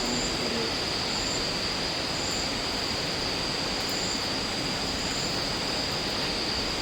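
Steady rushing noise of falling water, with a constant high insect drone and faint short chirps every second or so.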